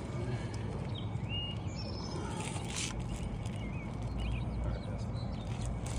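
Small birds chirping in short, wavering calls over a steady low rumble of outdoor background noise.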